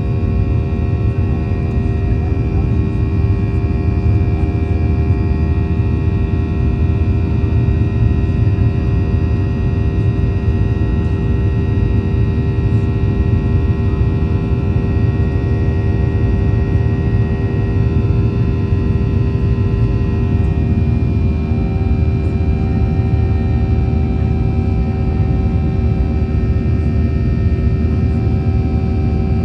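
Cabin noise of a Boeing 737-800 in flight: a steady low rumble of its CFM56 jet engines and airflow, with several steady engine tones above it. Some of the tones shift slightly about two-thirds of the way through.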